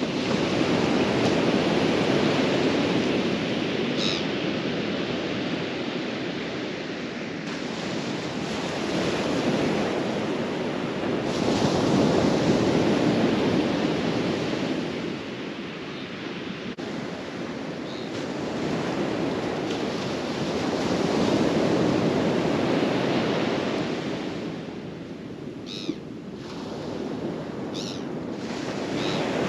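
Ocean surf breaking and washing ashore, swelling and easing about every ten seconds.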